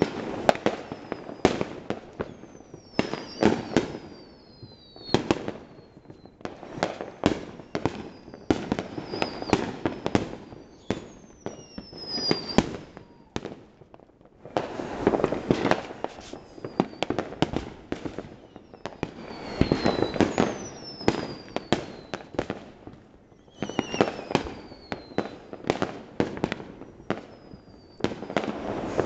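Neighbourhood fireworks going off in dense volleys of bangs and pops, with several high whistles that fall in pitch. The volleys ease briefly about halfway through and again about two-thirds of the way in.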